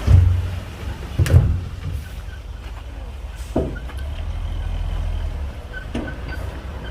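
Komatsu D58P bulldozer's diesel engine running with a steady low rumble, broken by four sharp knocks, the first two loudest.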